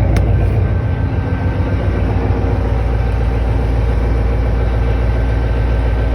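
Boat engine running steadily with a low rumble and a brief click just after the start.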